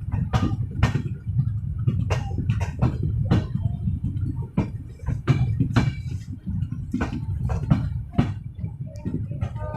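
Moving passenger train: a steady low rumble from the running gear, with many irregular clicks and knocks, several a second, from the wheels and rattling carriage.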